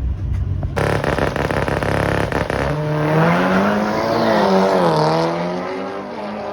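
Drag racing cars launching off the line and accelerating hard, starting suddenly with a rapid crackle about a second in. After that a loud engine note climbs in pitch, drops back as it shifts gear, and fades toward the end.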